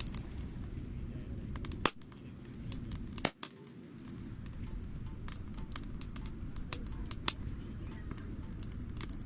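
Wood fire crackling: many small snaps and three much louder pops, about two, three and seven seconds in, over a steady low rush.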